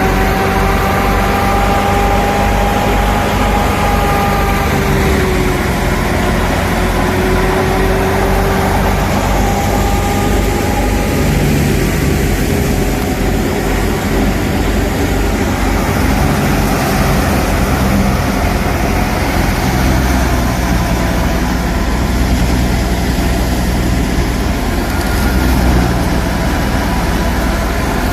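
Massey Ferguson 375 tractor's diesel engine running steadily at a constant speed.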